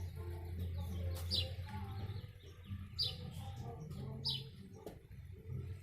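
A bird chirping over and over: short, high, falling notes about every second and a half, with a steady low hum underneath.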